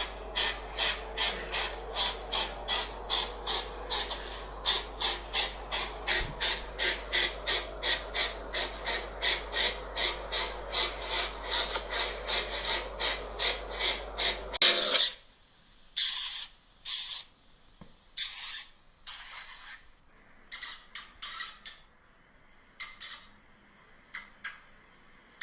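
A small animal breathing in rhythmic hissing puffs, about three a second. About two-thirds of the way through it cuts to short, separate hissing puffs with gaps between them.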